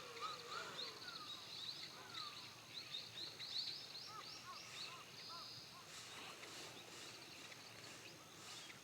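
Several small birds calling over one another: quick runs of short, high chirps, a few falling whistled notes in the first couple of seconds, and short arched notes around the middle.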